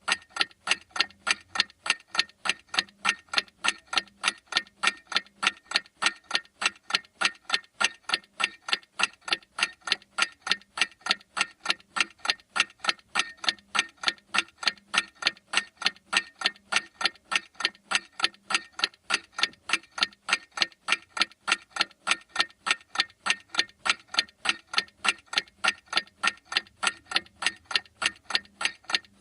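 Clock ticking steadily, a few even ticks a second.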